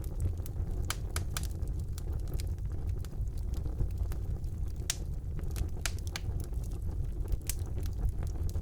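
Wood fire burning in a fireplace: a steady low rumble of the flames, with frequent sharp, irregular crackles and pops.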